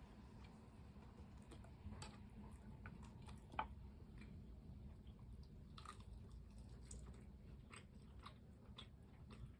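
Close-miked chewing of crispy fried chicken: soft, irregular crunches and mouth clicks, with one sharper crunch about three and a half seconds in.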